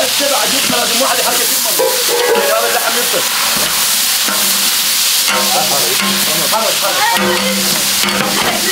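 Chunks of meat and diced onion frying in oil in a large cooking pot, sizzling steadily while a spoon stirs and scrapes through them.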